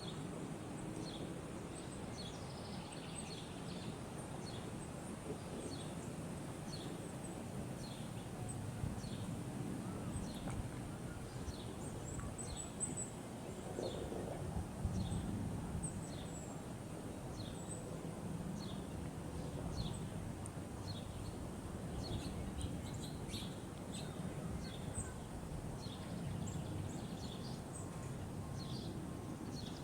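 Small birds chirping over and over in short high notes, above a steady low outdoor rumble.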